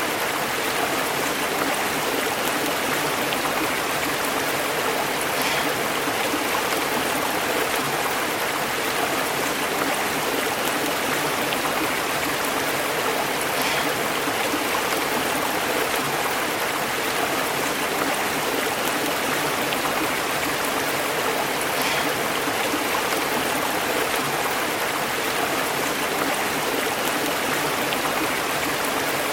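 Stream water flowing and bubbling over rocks, a steady, unbroken rush.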